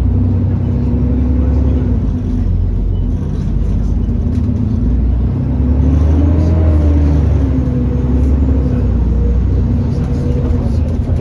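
Alexander Dennis Enviro400 double-decker bus running, with a loud hoover-like drone that rises in pitch about six seconds in and falls back again.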